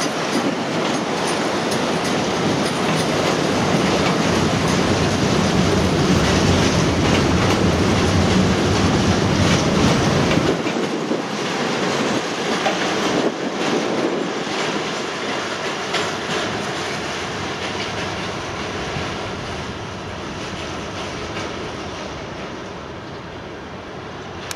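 Intermodal container wagons of a freight train rolling past, steel wheels running on the rails with a heavy low rumble and occasional knocks. The rumble drops out about ten seconds in, and the sound then fades steadily as the last wagons pass and draw away.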